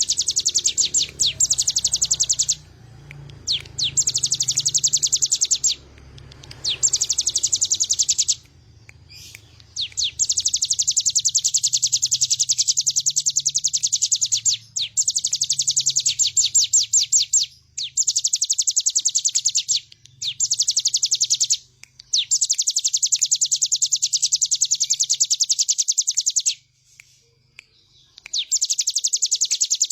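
A ciblek gunung (a prinia) singing in full voice: long bouts of very fast, high, buzzy repeated notes, each bout lasting a few seconds with only brief pauses between.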